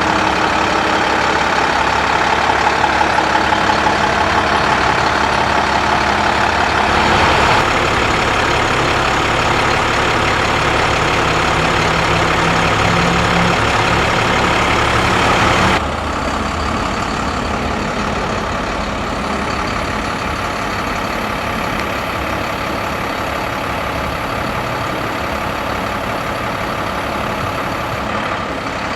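MaxxForce DT inline-six diesel engine of an International 7300 truck running steadily. The sound shifts about 7 seconds in and drops suddenly in level about halfway through. A thin high whine is heard through much of the second half.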